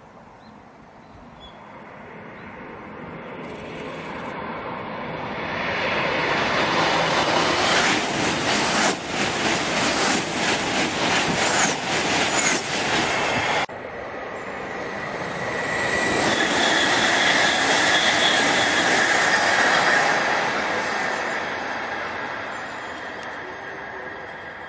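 Shinkansen high-speed trains passing. The first builds from a distant rush to a loud pass with a rapid run of clicks as the cars go by, cutting off abruptly about 14 seconds in. A second train then rushes past, swelling and fading with a steady high whine.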